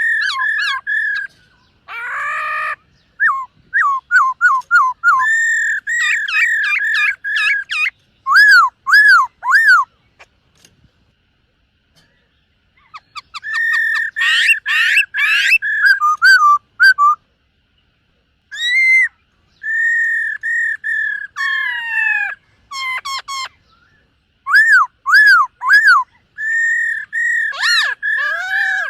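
Black-throated laughingthrush (khướu bạc má) singing loud, clear whistled phrases: runs of quick repeated notes and slurred whistles, broken by pauses of a second or more.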